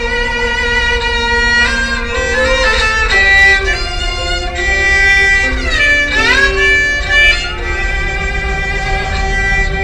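A solo bowed string instrument playing a melody, with held notes and notes that slide up and down between pitches. A low, steady rumble runs underneath.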